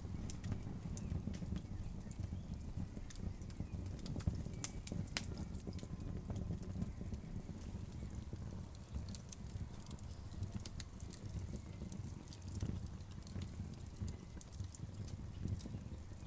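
Wood fire crackling: scattered sharp pops and snaps of burning logs over a steady low rumble of the flames.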